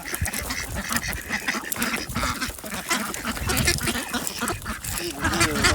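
A flock of domestic ducks quacking, many short calls overlapping throughout.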